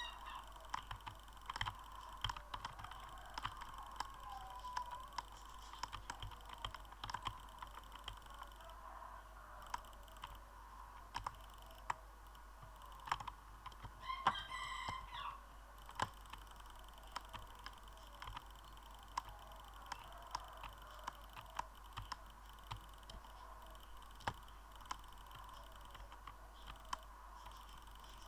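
Irregular sharp clicks throughout, with a rooster crowing once about fourteen seconds in.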